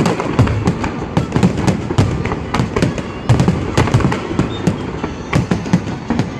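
Fireworks display at close range: a rapid, irregular barrage of sharp bangs and crackles, several a second, over a steady rumble of deeper booms.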